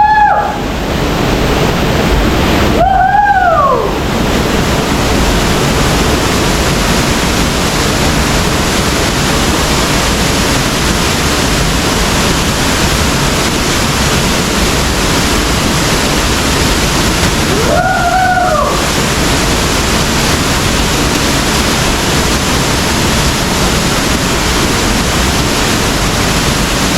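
Waterfall's steady rush of falling water, loud and even. A short call that rises and falls in pitch sounds over it twice, about 3 s in and again near 18 s.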